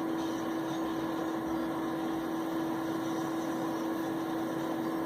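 Steady background hum with a constant tone and even hiss, unchanging throughout; no distinct handling sound stands out.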